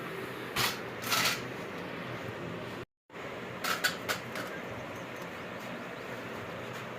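Steady background hum with a few short, light clicks and clatters: two about half a second apart near the start, then a quick cluster a little after the middle. The sound cuts out completely for a moment just before three seconds in.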